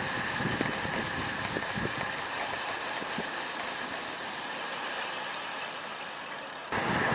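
Steady riding noise from a road bike under way in strong wind: wind and road noise, with a sudden jump in level near the end.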